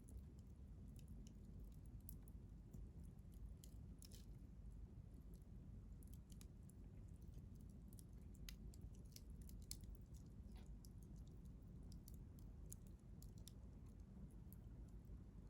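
Wood fire crackling faintly: scattered small pops and snaps from burning firewood over a low steady rumble.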